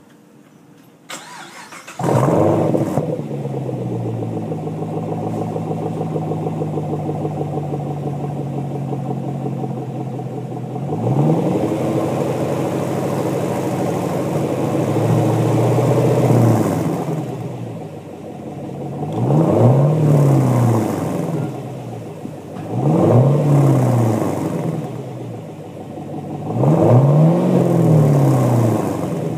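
A 2010 Camaro SS's LS3 6.2-litre V8, its mufflers deleted but its catalytic converters and resonators still in place, is cranked and catches about two seconds in. It then holds a steady fast idle that eases down slightly. From about halfway on it is revved several times, each rev rising and falling back to idle.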